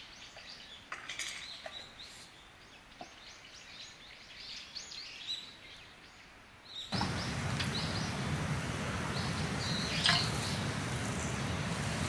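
Birds chirping repeatedly and faintly. About seven seconds in, a steady rushing noise starts abruptly and runs on, with a short sharp sound a few seconds later.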